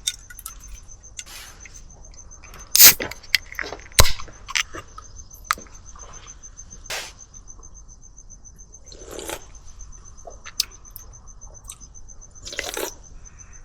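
Sharp clicks and knocks of a glass bottle and cup being handled as the bottle is opened and a drink poured, with a faint steady chirping of crickets behind.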